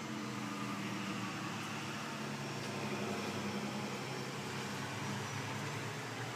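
A vehicle motor running with a steady low hum.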